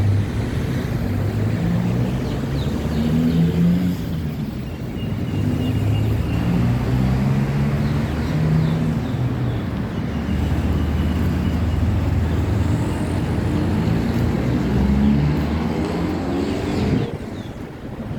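Road traffic: the engines of several motor vehicles running and moving off, their pitches rising and overlapping, with a brief lull near the end.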